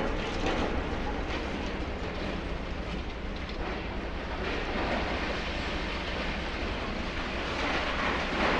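High-reach demolition excavator working, its diesel engine running steadily under a rough, rattling crunch of concrete and rubble as it breaks through a wall.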